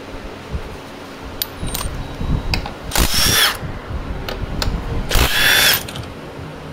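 A handheld electric power tool runs in two short bursts of well under a second each, with a motor whine. Light clicks of tools being handled come between the bursts.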